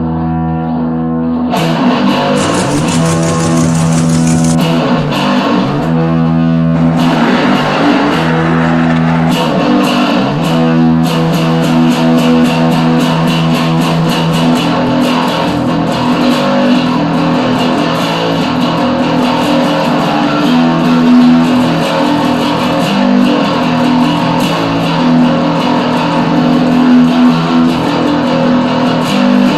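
Garage rock music: distorted electric guitar playing over bass, loud and continuous, with a fuller sound coming in about a second and a half in.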